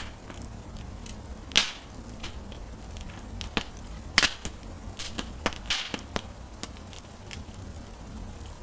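Wood fire crackling in a fireplace: irregular sharp pops and snaps, a couple trailing a brief hiss, over a steady low hum. The loudest snaps come about a second and a half in and about four seconds in.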